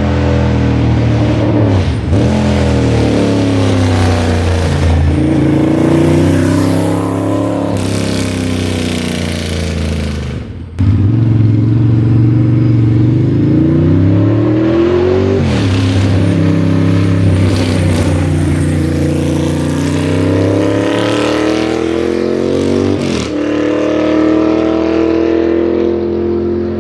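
Ducati Monster S4R's L-twin engine through a straight-piped custom exhaust, running loud under load. Its pitch climbs and falls again and again, drops abruptly twice, and briefly dips in loudness about ten seconds in.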